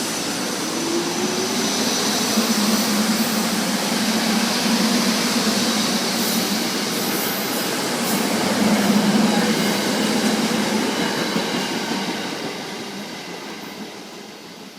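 A train passing on the rails: a steady rushing noise of wheels on track that builds, then fades away over the last few seconds as it moves off.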